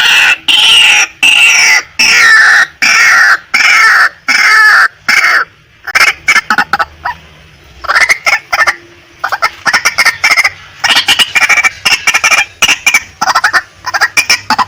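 Female white-breasted waterhen calling: loud, harsh notes repeated about twice a second, then after a short lull about six seconds in, a run of quicker, shorter clucking notes.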